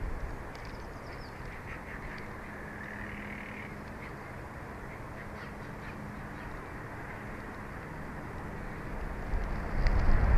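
Wind noise on an outdoor nest-camera microphone with faint, caw-like bird calls in the background. The wind gusts louder near the end.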